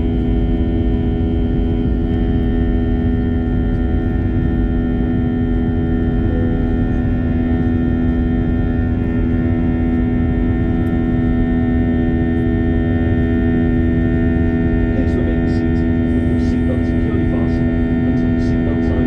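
Airliner cabin noise in flight: a steady drone of engine and airflow with a constant hum of several fixed tones. A few light clicks come near the end.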